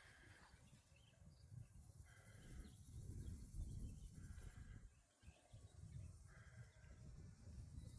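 Near silence: quiet outdoor ambience with a low rumble and a faint short call repeating about every two seconds.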